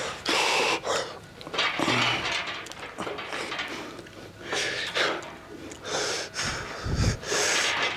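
A person breathing hard from weightlifting exertion, with several sharp, forceful breaths each under a second. A short low thud comes about seven seconds in.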